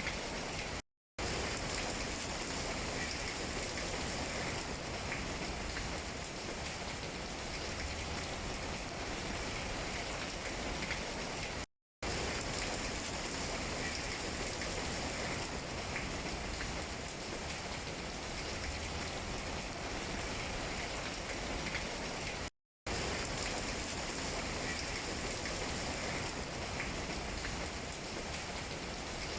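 Steady rain falling on tree leaves, an even patter with scattered drips. The sound cuts out to silence for a split second three times, about every eleven seconds.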